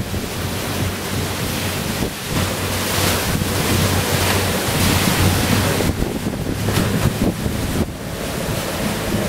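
Wind buffeting the microphone over the rush of rough sea, with a steady low hum underneath.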